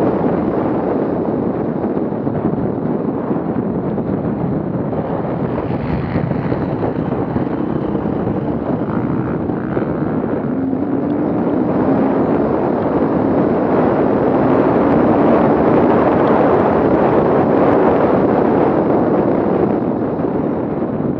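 Off-road vehicle engine running, growing louder over the second half, with wind buffeting the microphone.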